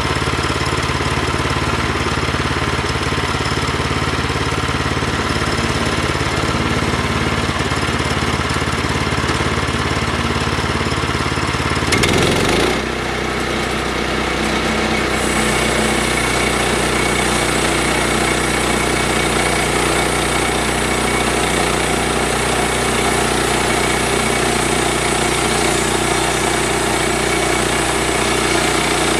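An engine running steadily. About twelve seconds in there is a brief louder burst, and the engine then settles at a different speed.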